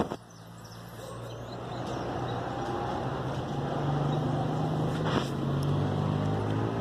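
Low engine drone with a steady hum that slowly grows louder, as from an approaching motor vehicle, with a brief sharp click about five seconds in.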